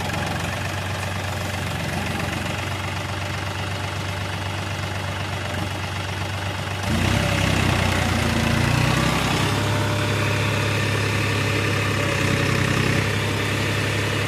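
Tractor diesel engine running steadily. About halfway through it suddenly gets louder and heavier, as if under more load.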